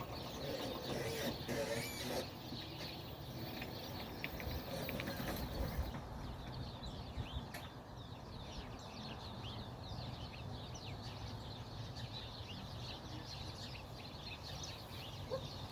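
Many wild songbirds chirping and calling in the brush: a dense stream of short, high chirps, thickest in the second half, over a low steady rumble.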